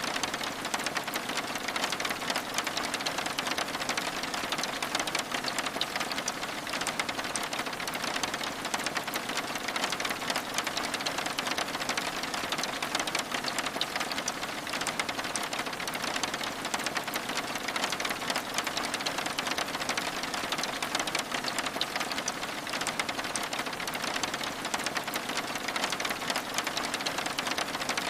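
Steady rain falling on a wooden cabin's window: a dense, unbroken patter of many small drop ticks that keeps an even level throughout.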